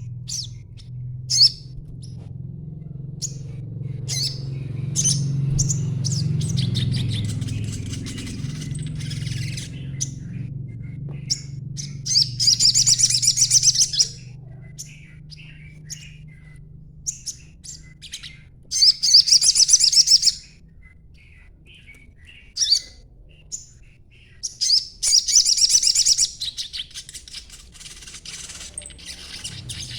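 Young sogon songbird chattering: scattered short, high chirps broken by three dense twittering runs of about two seconds each, over a low steady hum.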